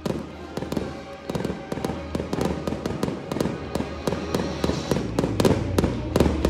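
Aerial fireworks crackling and popping in rapid, irregular bursts, growing denser and louder toward the end. Marching band music with sustained chords plays underneath.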